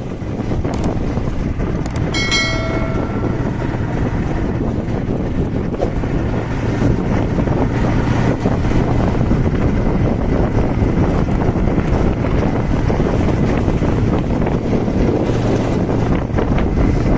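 A steady low rumble with wind buffeting the microphone, and a short pitched tone with overtones about two seconds in.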